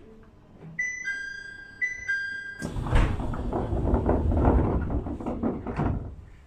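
A falling two-note electronic chime sounds twice. Then a train rushes past with a loud rumble and rapid wheel clacks for about three seconds before fading.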